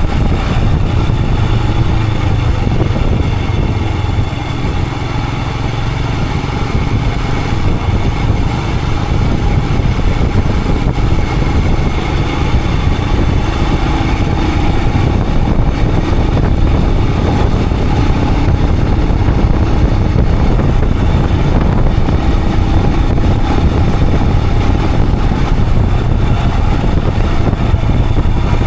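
Royal Enfield Himalayan 411's single-cylinder engine running steadily under way, heard from on the moving motorcycle. It eases slightly about four seconds in, then holds steady.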